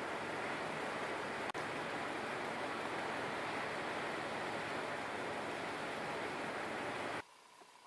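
A steady rushing noise with no pitch to it, broken for an instant about a second and a half in and cut off abruptly near the end. It gives way to quiet outdoor background with a few faint chirps.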